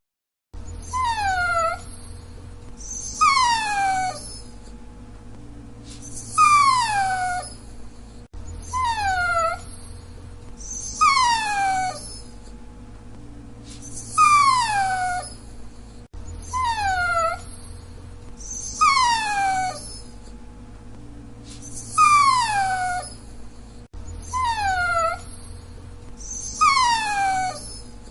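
Dachshund whining: repeated high-pitched whines, each under a second long and falling in pitch, about one every two seconds, over a faint steady hum.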